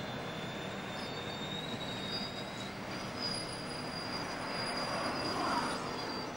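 Passenger train carriages rolling past with a steady rumble of wheels on rail, overlaid by thin, high-pitched wheel squeal that steps up in pitch about a second in and again about three seconds in.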